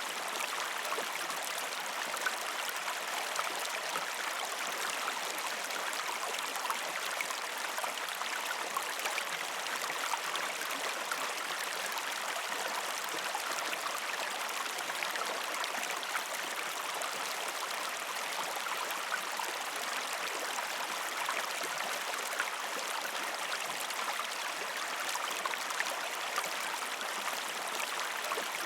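A river stream flowing over rocks, a steady rushing with fine splashes and gurgles throughout.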